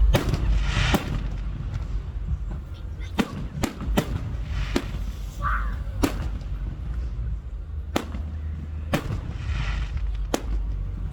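Aerial fireworks display: about ten sharp bangs at irregular intervals, some followed by a crackling hiss.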